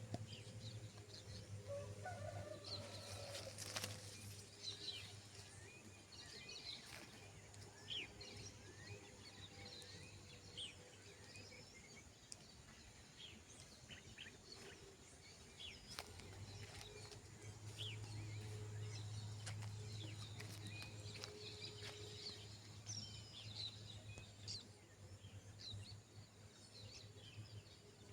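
Faint farmyard birds: many short chirps throughout, with fowl calling, over a low steady hum.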